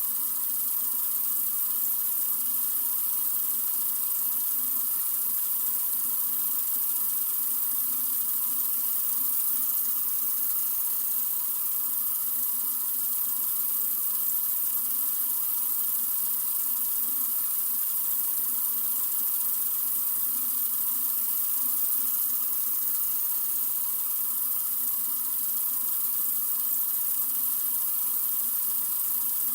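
Water running steadily from a sink faucet: a continuous, even hiss that is strongest in the highs.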